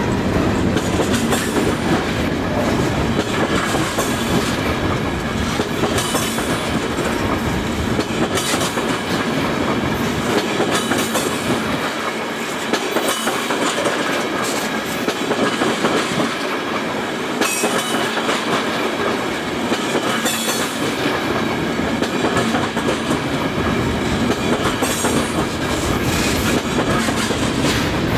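Freight cars, mostly tank cars, rolling past close by: steady rumble of steel wheels on rail with repeated clickety-clack of wheels over rail joints.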